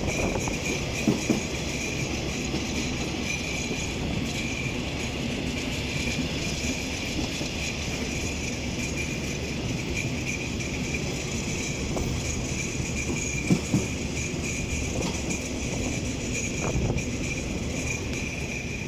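Metrorail electric commuter train running, heard from inside the coach: a steady rumble of wheels on rails with a thin, steady high whine. Twice, about a second in and again near the middle, a quick pair of clicks as the wheels cross a rail joint.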